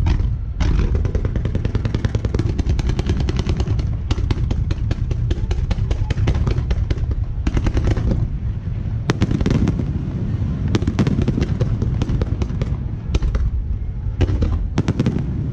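Fireworks display firing a continuous barrage: many rapid bangs and crackles overlapping, over a steady deep rumble.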